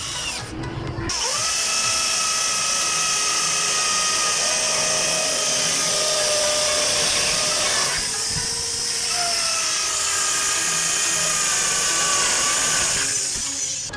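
Electric power drill running at speed with a steady whine and hiss. It slows briefly about eight seconds in, runs up again, and stops near the end.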